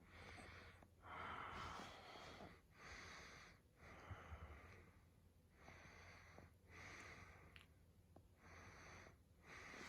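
Shiba Inu breathing: faint, slow, audible breaths in and out, about four breath cycles.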